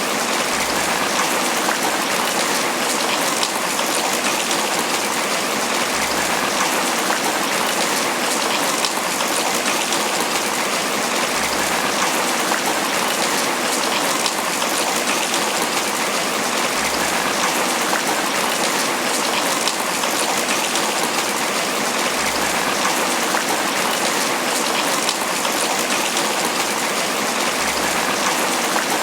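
Steady heavy rain falling on banana leaves, a dense even patter of drops.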